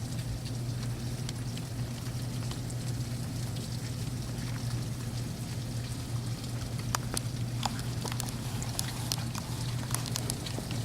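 Thunderstorm rain pouring down, with sharp close drops tapping more often in the second half, over a steady low hum.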